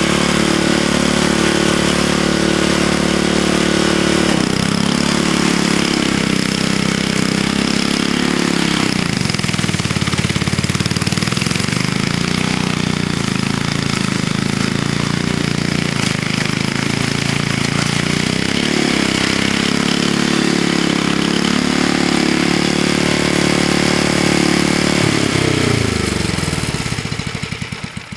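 Vintage Snow Bird snowblower's small gasoline engine running loud, run with a little choke on. Its pitch sags several times as it bogs under load digging into packed snow and ice. Near the end it winds down and stops as it is shut off.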